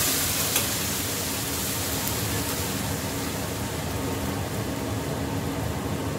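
Chopped tomatoes sizzling in hot oil in a frying pan, the hiss sharpest just as they go in and then settling into a steady frying hiss over a low hum.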